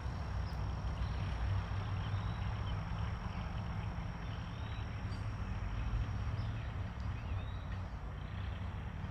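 Outdoor background: a steady low rumble with a thin steady high tone over it, and faint short bird chirps now and then.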